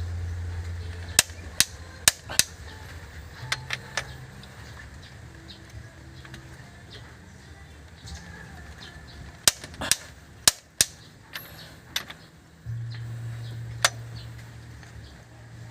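Irregular sharp clicks and knocks of hand tools working on metal, about a dozen in all, over a low steady hum that shifts pitch a few times.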